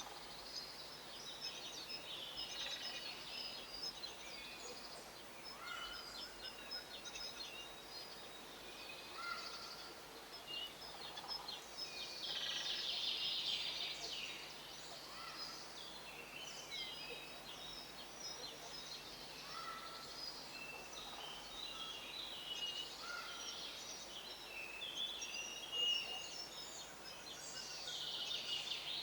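Small songbirds chirping and twittering in a steady, busy chorus of short high notes, with denser bursts of twittering about halfway through and again near the end.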